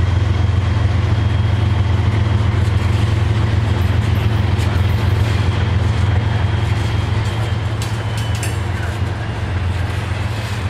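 An engine idling, a deep steady hum, with a few light ticks and a faint high whine in the second half.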